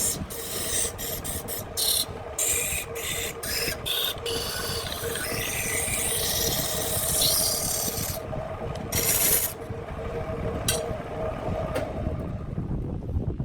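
Handmade wood lathe running with a steady motor hum while a hand tool scrapes and cuts the spinning wood in short, broken strokes and one longer pass. The cutting stops near the end, leaving the lathe running on its own.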